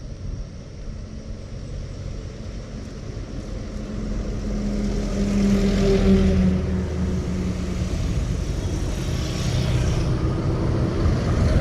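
A motor vehicle's engine running, growing louder about four seconds in and then holding steady.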